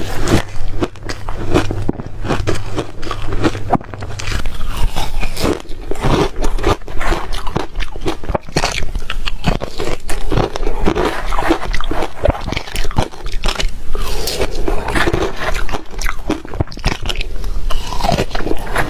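Close-miked crunching of ice being bitten and chewed: a dense, irregular run of crisp crunches.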